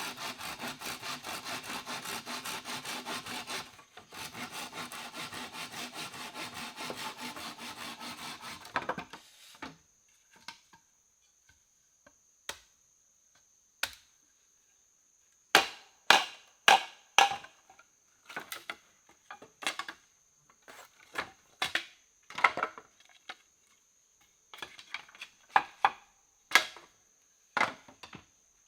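A hand saw cutting through wood in quick, even strokes for about nine seconds, with a short break near four seconds in. Then come a series of sharp wooden knocks at irregular intervals.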